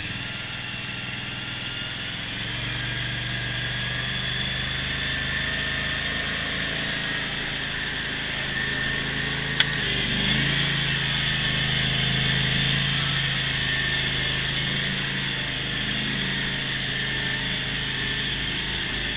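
John Deere X520 lawn tractor engine running steadily while working through deep snow. Its note rises and firms up a couple of seconds in and dips briefly around the middle, where there is one sharp click.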